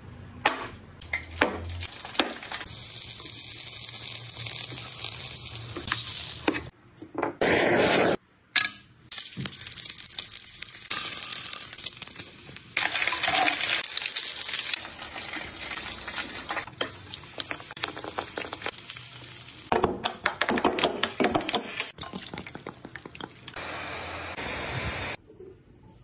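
A run of short cooking sounds cut one after another: sheep tail fat frying and sizzling in a pan of oil, mixed with sharp clicks and knocks of utensils and food being handled.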